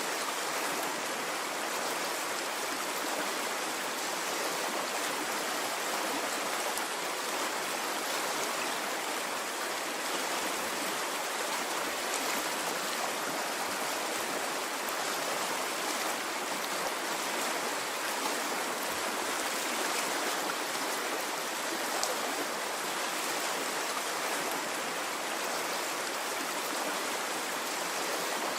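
Water flowing in a stream, a steady rushing sound that never swells or pauses.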